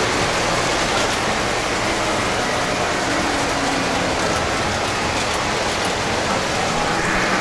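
Several model trains running on a large layout, their wheels on the track making a steady, even noise.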